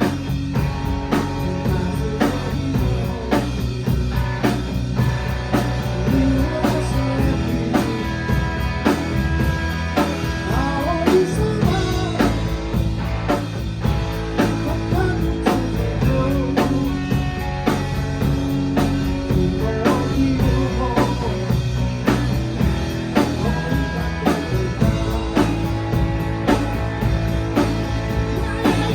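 Rock band playing: a drum kit keeps a steady beat under bass and electric guitar.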